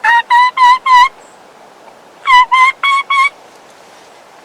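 Turkey call sounding hen yelps very close by: two runs of four loud, evenly spaced yelps, the second run about two seconds after the first.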